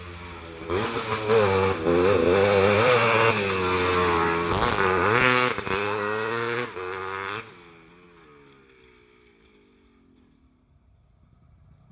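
Motorcycle with an aftermarket racing exhaust (knalpot racing) revving loud, with a sharp rise in pitch about five seconds in. After about seven seconds the sound drops and falls in pitch, fading out.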